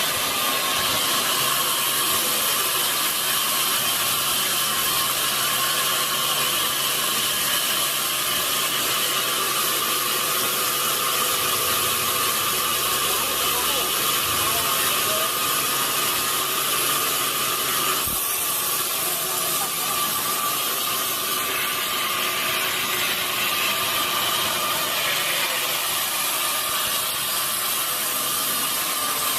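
Large sawmill saw cutting lengthwise through a big log: a steady, high-pitched hiss and whine of the blade in the wood, with a slight shift in the sound about two-thirds of the way through.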